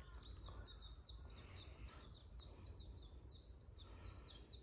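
A songbird singing faintly: a long, even run of high, quick down-slurred notes repeated about four to five times a second.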